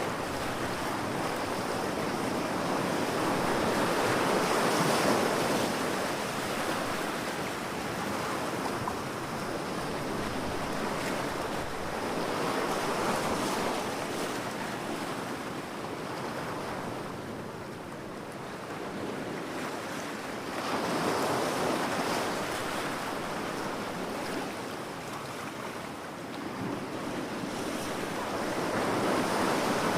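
Sea waves breaking and washing up on a beach, a steady rush of surf that swells and falls back about every eight seconds.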